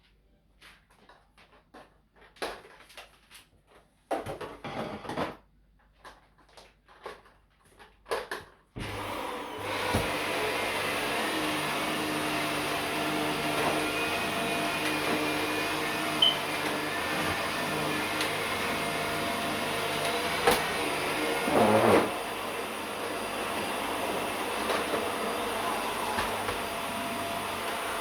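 Scattered clicks and knocks of handling, then a vacuum cleaner switches on about nine seconds in and runs steadily with a constant hum. Later there is a sharp knock and a brief louder surge.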